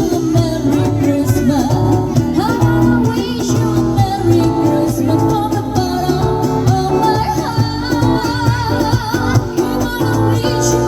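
A young woman singing a song over instrumental backing music, her voice wavering and sliding in pitch on held notes.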